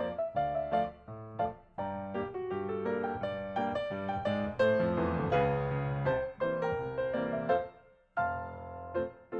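Background music played on piano: a run of single notes and chords, dropping out briefly about a second before the end.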